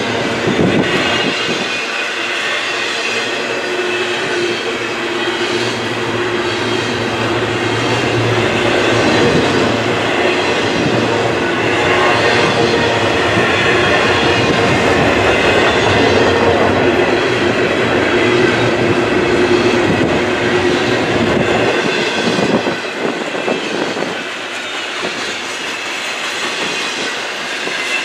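Double-stack intermodal well cars of a long freight train rolling past close by: a loud, steady rumble and rattle of steel wheels on rail. A faint steady whine runs through it for much of the time.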